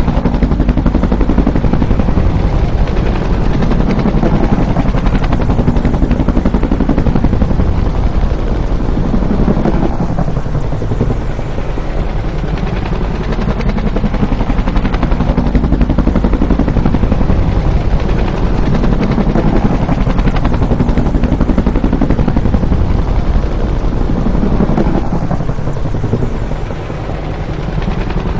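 Bell UH-1 "Huey" helicopter with its two-blade main rotor beating in fast, even pulses, the pitch slowly rising and falling several times as it passes.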